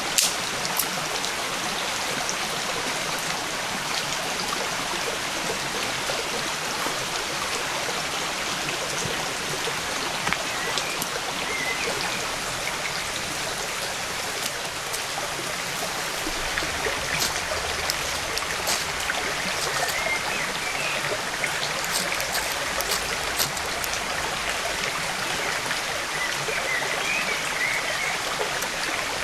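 Stream running steadily: a continuous, even rush of flowing water.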